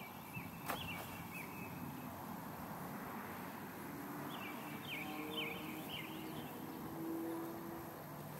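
Small birds chirping in short falling notes, in two bursts, over steady outdoor background, with one sharp click just under a second in and a faint low steady hum in the second half.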